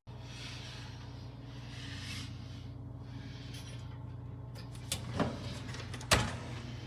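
A steady low mechanical hum, with a few sharp clicks or knocks about five and six seconds in.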